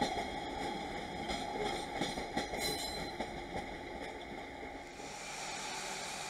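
JR West 117 series electric train pulling away over the yard tracks: wheels rumbling and clicking on the rails. It fades into a quieter, steady background about five seconds in.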